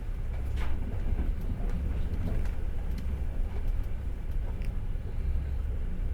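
Passenger train carriage riding along the rails, heard from inside: a steady low rumble with a few light clicks and a short squeak from the running gear.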